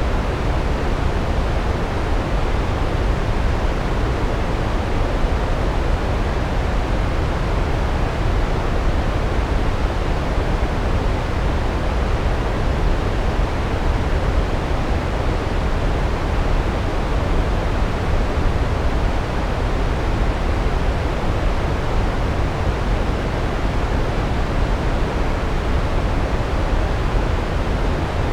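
Large waterfall: a steady, unbroken rush of falling water, heaviest in the low rumble, with no change in level.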